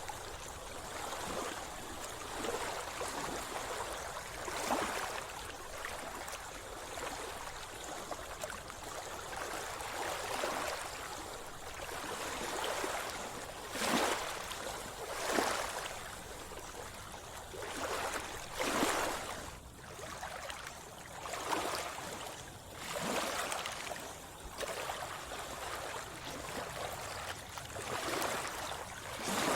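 Sea water splashing and lapping close by, a steady wash with short splashes every one to three seconds.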